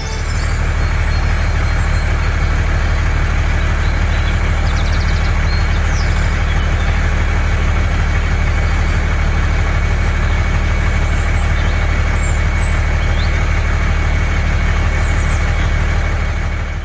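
Heavy engine idling steadily, a deep even rumble that starts abruptly and cuts off at the end.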